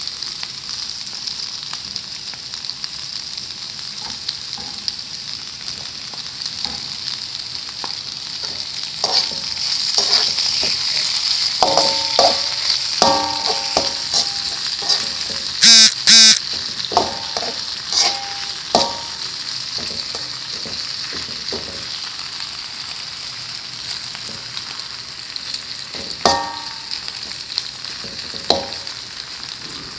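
Meatballs (bakso) frying in hot oil in a pan, a steady sizzle, while being stirred. A metal spatula knocks and scrapes against the pan in a run of ringing clanks through the middle, the loudest two close together about halfway, and once more near the end.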